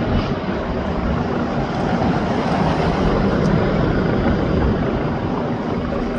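Helicopter hovering, its rotor and engine making a steady, unbroken noise.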